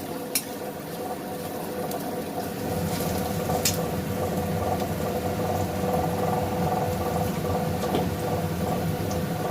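Onions frying in oil in a pan over a high gas flame: a steady sizzle that grows louder about three seconds in, over a steady hum, with a couple of short utensil clicks.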